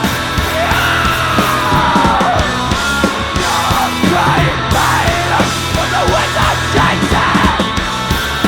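Loud live rock band playing a heavy, distorted song with drums and bass, and a voice yelling over it.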